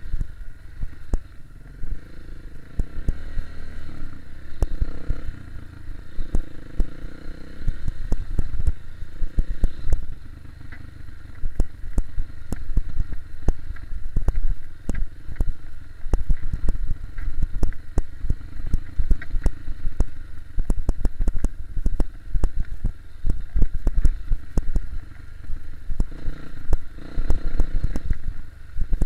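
KTM 250 EXC-F single-cylinder four-stroke dirt bike running along a trail, with a heavy, uneven low rumble and many sharp clattering knocks as it goes over rough ground.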